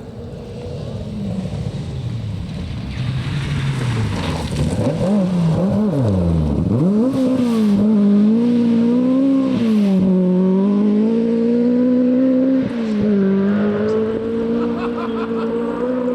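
Rally car engine driving hard on the stage: the revs fall and climb several times about five to seven seconds in as it shifts down and pulls away, then it runs loudest at high revs with a quick gear change near the end.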